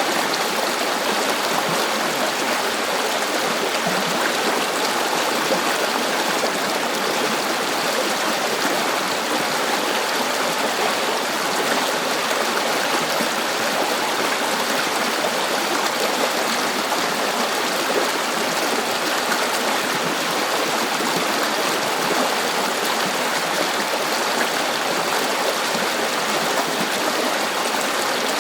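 A river flowing steadily, a continuous rushing and babbling of water.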